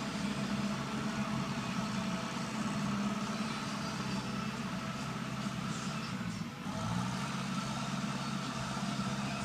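A large engine, such as a truck or heavy tree-work machine, running steadily. About six and a half seconds in its note dips briefly, then picks back up.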